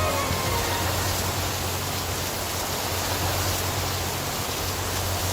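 Steady rain noise, an even hiss, as the last synthesizer notes die away at the start.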